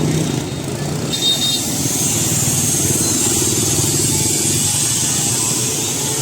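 Motorbike engines running close by in busy street traffic, over a steady hiss of street noise.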